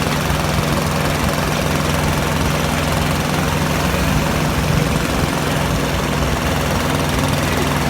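Tractor engine running steadily with an even, low drone.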